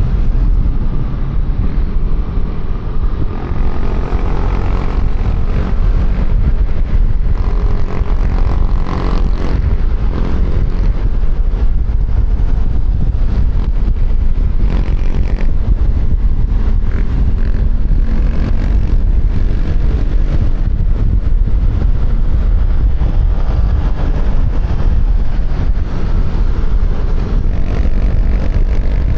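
QJMotor Fortress 160 scooter being ridden at speed, heard from a helmet-mounted microphone: its engine runs steadily under a heavy, constant low rumble of wind on the microphone.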